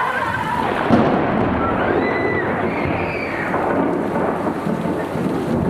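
Heavy rain pouring down, with a low rumbling that sets in suddenly about a second in.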